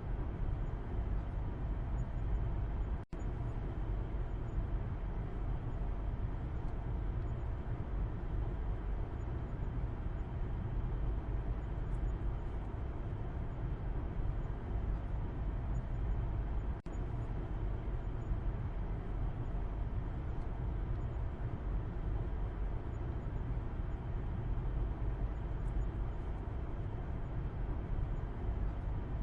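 Steady car driving noise heard from the back seat inside the cabin: a low rumble of road and engine noise. It cuts out for an instant twice, about three seconds in and again near the middle.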